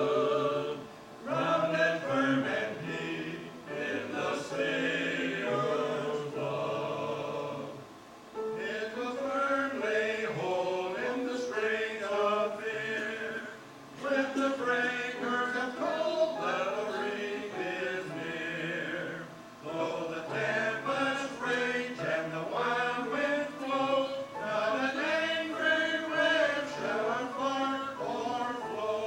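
A choir singing a gospel song, in phrases with short breaths between them.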